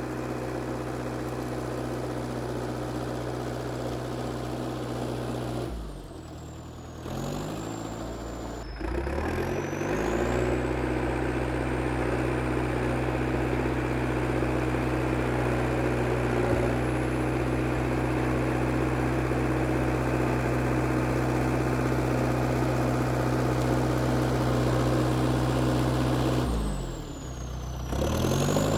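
IH TD8E crawler bulldozer's diesel engine running steadily. Its speed drops and comes back up twice: around six seconds in, and again near the end.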